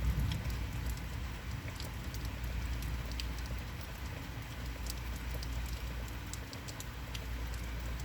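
Rain from a heavy rainstorm falling steadily, with scattered individual drops pattering close by over a constant low rumble.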